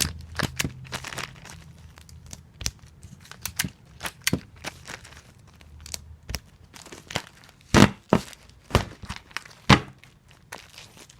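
Adhesive tape being pulled from a tape dispenser and torn off while comic books are taped, a dense run of short crackles and snaps. Two much louder strokes come about two seconds apart near the end.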